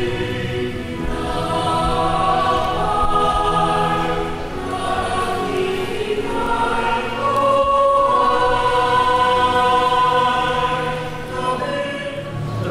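Choir singing a slow hymn in long, held notes.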